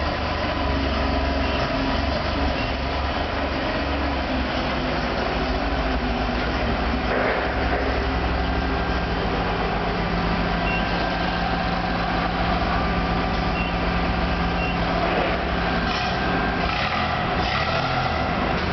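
Vertical milling machine running: a steady mechanical rumble and hum, with a steadier low hum joining in partway through and fading out near the end.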